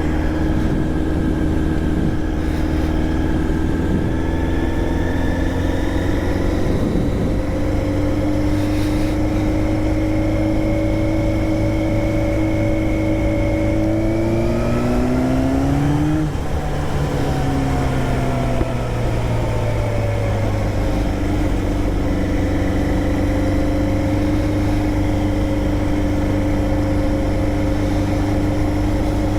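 Motorcycle engine running under way, its note climbing slowly, dropping away about halfway through, then holding steady again.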